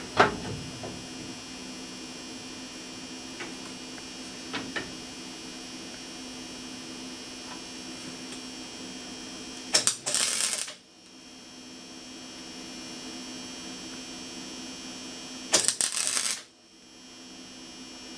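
Two short bursts of MIG welding arc, each about a second of crackling, over the steady hum of the welder. The shielding gas is not yet turned on, and the tacks go poorly.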